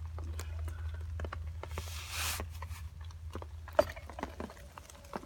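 Scraping and crunching of damp soil and grit as dirt is worked around a buried stone artifact, with scattered small clicks, a longer scrape about two seconds in and a sharp tick near the end, over a steady low rumble.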